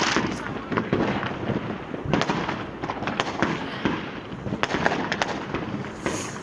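Street fireworks and firecrackers going off continuously: a dense crackle of many sharp bangs, near and far, with no pause.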